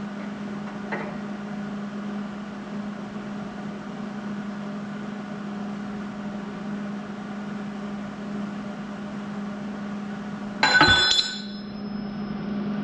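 Wire-feed welder working on the steel bucket bracket, a steady hum over a low hiss. Near the end comes one loud, ringing clank of steel on steel.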